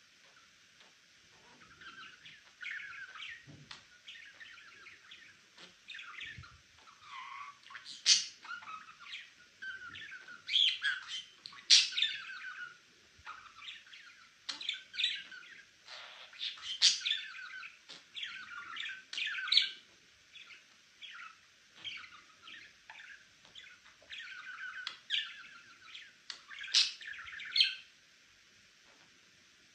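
Pet budgerigar chattering: a continuous run of quick chirps and warbling notes, with louder sharp calls every few seconds. The chatter stops near the end.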